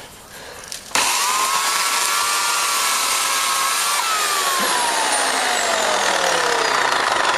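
Black & Decker 2200 W electric chainsaw starting up suddenly about a second in with a loud high whine, then cutting into a thick branch: from about four seconds in its pitch falls steadily as the motor slows under the load of the cut.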